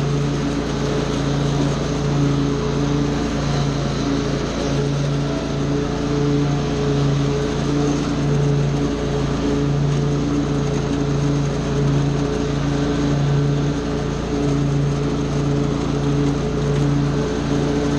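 Small gasoline engine of lawn equipment running steadily at working speed, its hum wavering about once a second.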